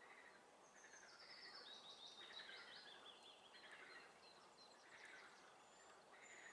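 Faint spring swamp chorus: a songbird sings one fast, stepped trill lasting about three seconds, starting about a second in. Under it, frogs call over and over, roughly once a second.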